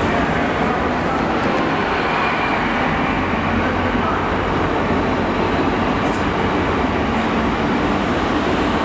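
Great Western Railway Class 800 train of two coupled units rolling past along the platform: a steady, unbroken sound of wheels and running gear on the rails.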